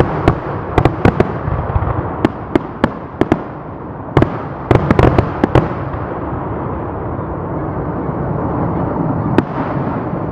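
Fireworks going off: a rapid string of sharp bangs and crackles over a continuous rumble for the first five or six seconds. After that the rumble runs on more steadily, with one last sharp bang near the end.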